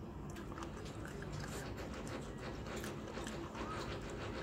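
A person chewing food close to the microphone, with scattered small mouth clicks and smacks.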